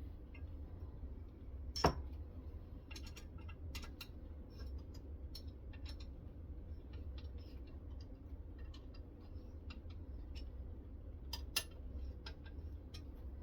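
Irregular light clicks and taps of metal parts being handled on a guided knife-sharpening system, with a sharper knock about two seconds in and another near the end, over a steady low hum.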